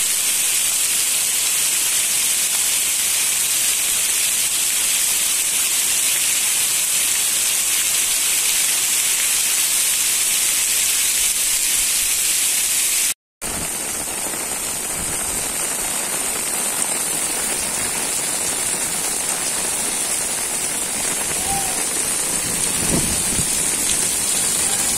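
Heavy tropical downpour: a loud, steady hiss of rain. It cuts out for a moment about halfway, then resumes slightly quieter.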